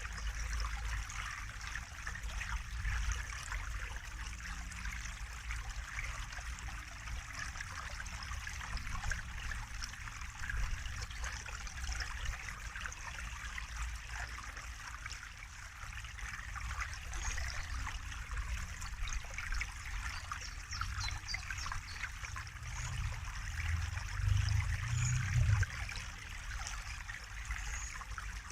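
Water trickling and babbling steadily, like a small stream, with a low rumble underneath that swells briefly near the end.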